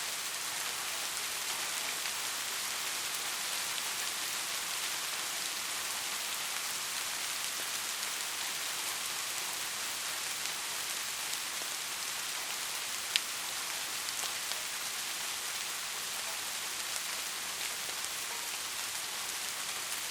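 Steady rain falling, an even hiss with scattered drop ticks and one sharper tick about two-thirds of the way through.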